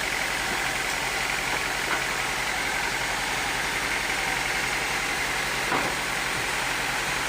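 Sawmill machinery running steadily, an engine-like hum and whir with two brief knocks, one about two seconds in and one near the end.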